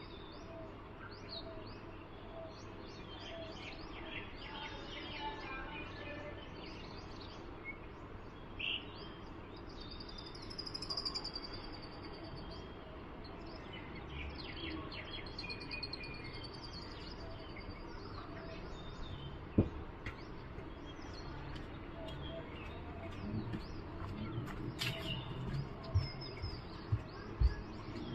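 Birds chirping and calling repeatedly, with a few high whistled notes, over a steady background noise. A few short sharp knocks sound in the second half.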